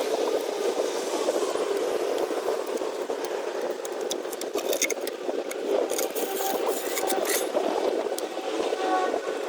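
Scraping and rubbing as foil-tape residue is cleaned off the V8's intake port gasket surfaces, a steady rough scrubbing with a few sharp clicks about halfway through.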